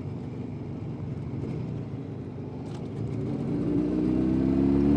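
Jawa 350 type 638 two-stroke twin engine running at low revs, then revving up from about three and a half seconds in as the motorcycle accelerates, its pitch climbing and getting louder.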